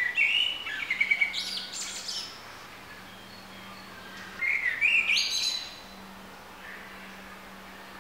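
A songbird singing two phrases, each of whistled notes that rise into a high twitter: one in the first two seconds or so, another about five seconds in.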